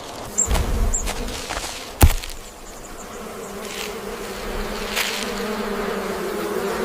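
A steady insect-like buzzing drone, with low thumps near the start and one sharp, loud crack about two seconds in.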